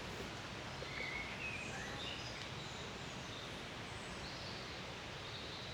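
Faint, scattered bird chirps over steady outdoor background noise.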